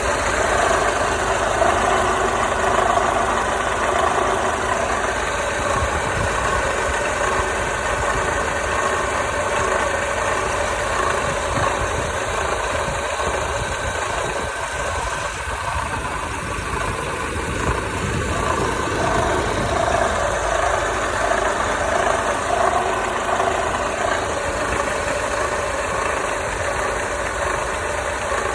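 Mercedes-Benz W208 CLK engine idling steadily with a knocking, scraping noise whose cause the owner does not know.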